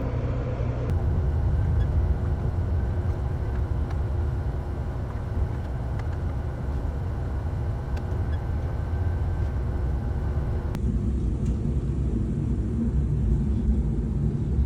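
Steady low rumble of a moving Via Rail passenger train. The sound shifts abruptly about a second in and again near eleven seconds.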